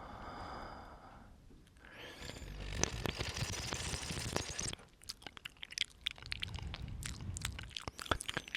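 Close-miked ASMR mouth sounds: breath blown onto the microphone, then a run of wet clicks and smacks from the lips and tongue.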